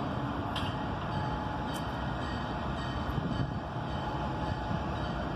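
CSX freight train approaching, its diesel locomotive and wheels giving a steady rumble, with a faint steady whine coming in about a second in.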